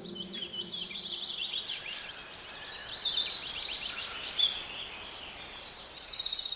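Birdsong: several small birds chirping and whistling in quick, overlapping calls, with fast rattling trills near the end.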